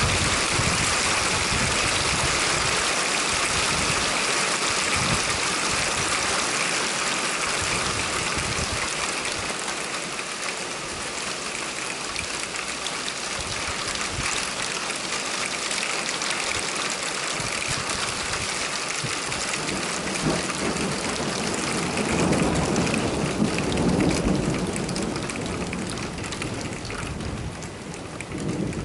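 Heavy rain pouring steadily during a thunderstorm. About twenty seconds in, a low rolling rumble of thunder swells under the rain, then fades.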